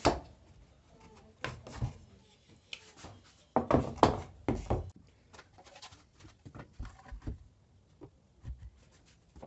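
Workshop handling sounds: a series of irregular knocks, clicks and rubbing scrapes, as of wooden and metal parts being handled and set down on a bench, the loudest cluster about four seconds in.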